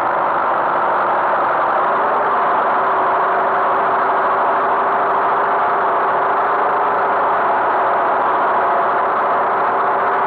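Tractor engine running steadily at an even speed, a constant hum with a steady drone.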